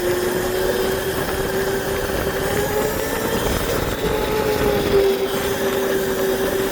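Electric dirt bike's motor whining at one steady pitch while riding, over a steady rushing noise.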